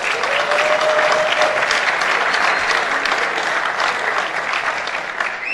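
Audience applauding, loudest about a second in and thinning toward the end, with a single held tone rising out of it near the start.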